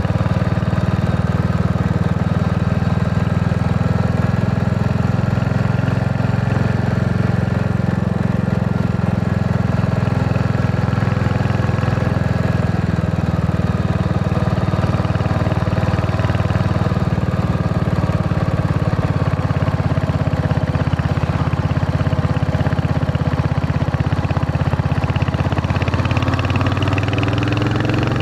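Royal Enfield Hunter 350's single-cylinder engine and exhaust running steadily while riding, its pitch wavering a little and rising near the end as the bike accelerates.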